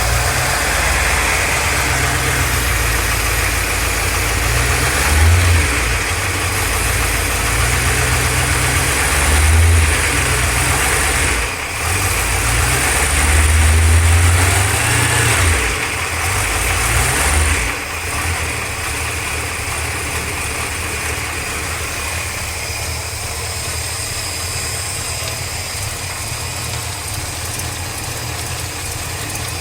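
Engine idling, rising in speed briefly a few times. About eighteen seconds in it drops to a quieter, steadier run.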